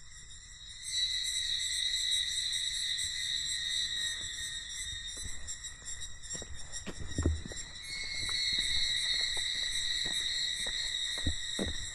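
Cicadas droning in a steady chorus that swells in about a second in and strengthens again past the middle. Scattered footsteps and small knocks sound underneath.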